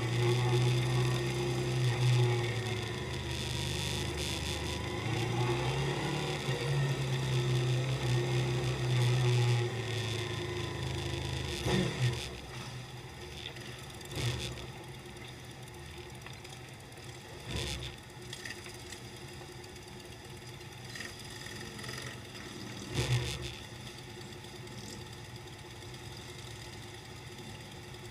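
Motorcycle engine idling with a steady low hum that stops about twelve seconds in. Afterwards a quiet background with a few scattered knocks.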